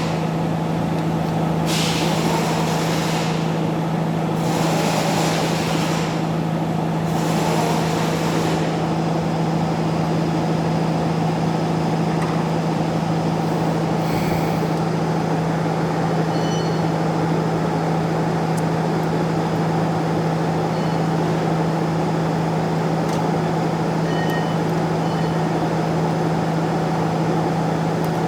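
Steady machine hum on one low tone, with four short bursts of hissing in the first nine seconds.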